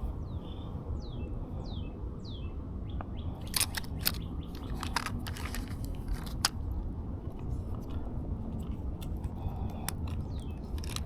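A bird calling in a run of short, quick falling whistles, four in a row near the start and again near the end, over a steady low outdoor rumble. Sharp clicks and taps come in the middle, some of them louder than the bird.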